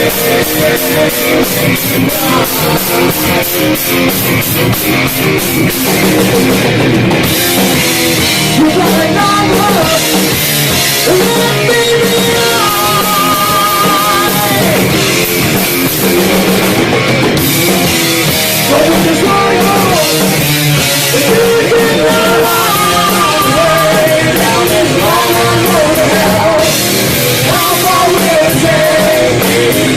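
Live heavy metal band playing: distorted electric guitars, bass and drum kit. For the first six seconds a fast, even chugging pulse, then the band fills out, with a wavering melodic lead line over the top.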